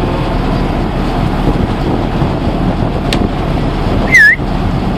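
Wind blowing and buffeting the microphone on the deck of a boat, a steady heavy rush. About four seconds in, one brief, loud, high-pitched call with a dipping pitch cuts through it.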